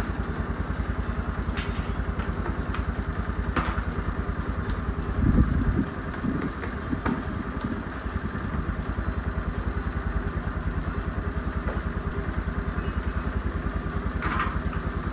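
Motorcycle engine idling with an even, rapid beat, and a few sharp knocks over it, the loudest about five seconds in. It cuts off suddenly at the end.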